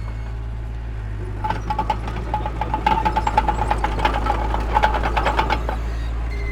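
Heavy earthmoving machinery running with a steady low engine drone. About a second and a half in, a rapid metallic clanking and rattling with a ringing tone starts, going on until near the end.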